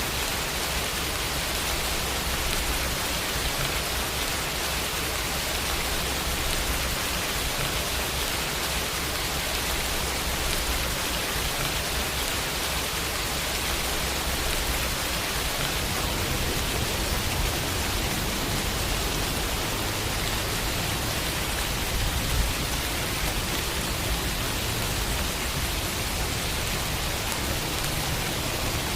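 Steady rain falling on a window.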